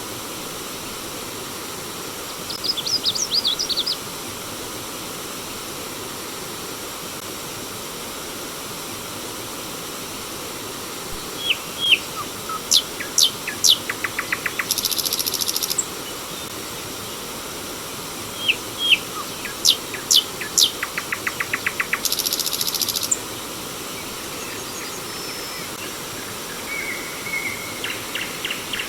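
Steady rush of flowing stream water, with wild birds singing over it: a short burst of chirps a few seconds in, then two similar songs of sharp whistled notes, each ending in a high buzzy trill, near the middle and again later, and soft chirps near the end.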